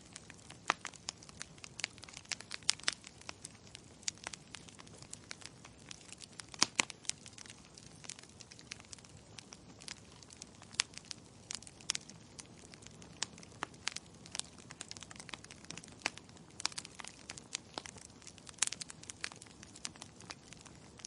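Wood fire burning in a fireplace: irregular sharp crackles and pops over a low, steady hiss, with a louder pop about seven seconds in.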